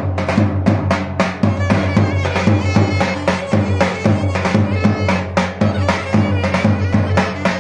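Turkish davul drum and clarinet playing a lively folk dance tune together: quick, steady drum strokes under a clarinet melody.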